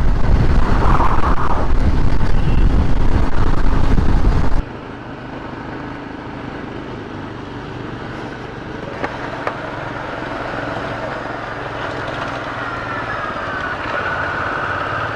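Motorcycle riding on the road, with heavy wind noise on the microphone. About four and a half seconds in it cuts suddenly to a quieter, steady road and engine sound.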